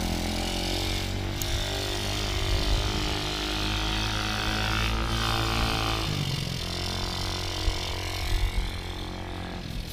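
A small 49cc moped engine running steadily as it is ridden, its note changing about six seconds in.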